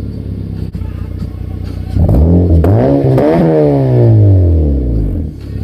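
Honda Civic four-cylinder engine through a Spec-D N1 aftermarket catback exhaust with a 4-inch tip, idling, then revved up about two seconds in, blipped a couple of times, and falling back smoothly to idle near the end.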